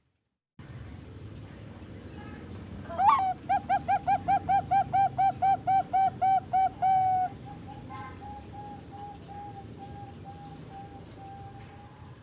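Young Bangkok-type zebra dove (perkutut), about three and a half months old, singing: an opening note about three seconds in, then a loud, fast run of some sixteen cooing notes, about four or five a second, ending on a longer held note. A fainter string of coos at the same pitch follows.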